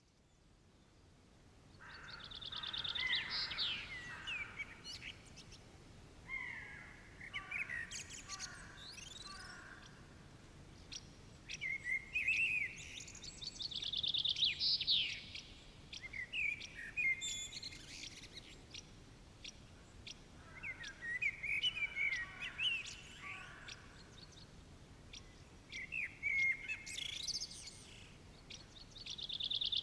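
Bird song: phrases of quick chirps and trills that come back every five or six seconds over a faint steady hiss, fading in at the start.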